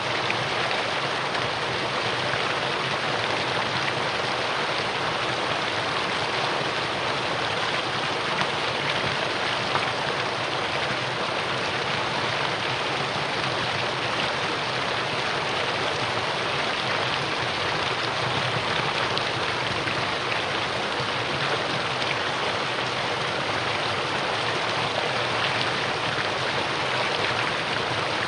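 Mountain valley stream flowing: a steady, even rush of water that does not change.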